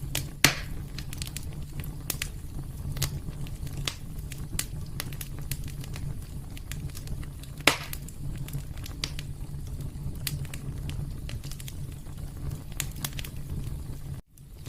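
Fireplace fire crackling, with frequent small pops over a low steady rumble. Two pops stand out much louder, one about half a second in and one about halfway through. The sound drops out briefly just before the end.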